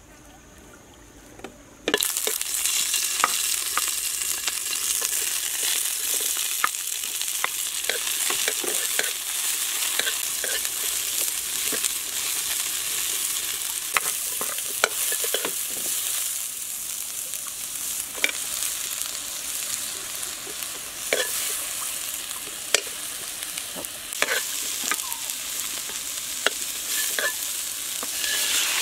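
Stir-fry in a wok of hot oil: sliced onion, chilli and other vegetables sizzle steadily from about two seconds in, when they hit the oil, with scattered clicks and scrapes of the spatula. The sizzle grows louder near the end as raw chicken livers go into the wok.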